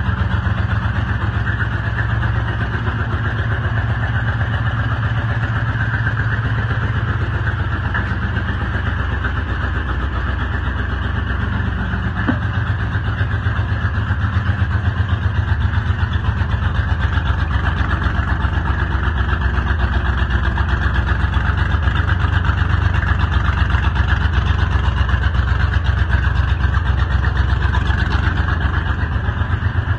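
1976 Ford F-150's engine running steadily just after a cold start, a little louder in the second half.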